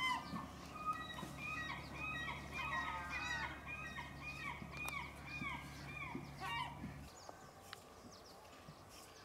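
Birds calling: a quick series of short, arching high-pitched calls, several a second, fading out about seven seconds in, over a faint steady low hum that stops at the same time.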